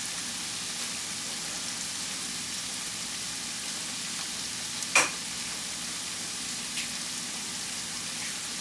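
Food sizzling steadily as it fries in a pan, with one sharp tap against the pan about five seconds in and a fainter tap a couple of seconds later.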